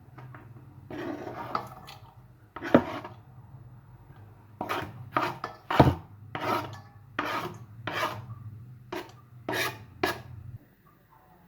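Repeated rasping scrapes, about ten strokes a little over half a second apart in the second half, with a low steady hum underneath that stops near the end.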